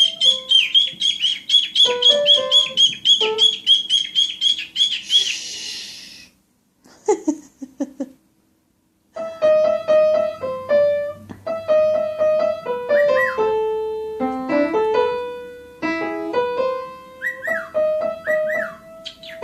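A cockatiel chirping over and over, about four quick high chirps a second, over piano music; the chirping stops about five seconds in with a brief hiss, the sound drops out twice, and the piano music carries on alone.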